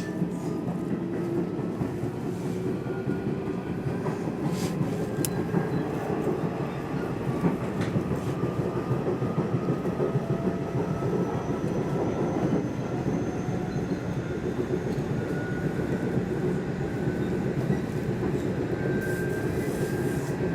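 Electric commuter train on the Nishitetsu line running, heard from inside the car: a steady rumble of wheels on rails, with the motor whine rising slowly in pitch as the train gathers speed. A few sharp clicks come about four to five seconds in.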